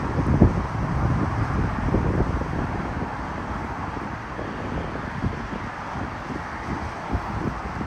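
Strong wind buffeting the microphone in uneven low gusts over a steady rushing noise.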